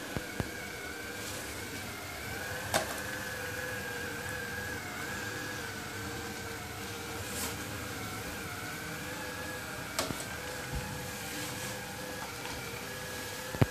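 Sharp robot vacuum cleaner running: a steady motor whine over a hiss, broken by a sharp knock about three seconds in and another about ten seconds in.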